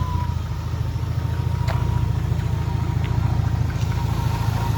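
Turbocharged BMW 325i straight-six running at a steady idle, with a thin, high, steady whine riding over the engine note. The whine comes from the alternator, whose pulley the owner thinks is starting to seize.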